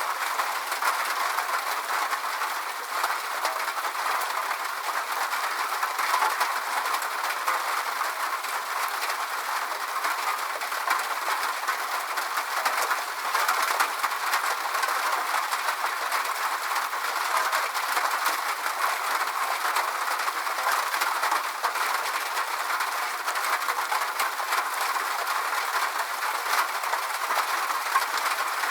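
Steady rain: an even hiss with fine irregular patter, thin and without any low rumble.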